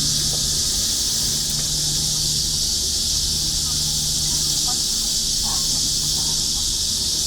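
A dense chorus of cicadas: a loud, steady, high-pitched hiss that never breaks, over a low steady hum of city traffic.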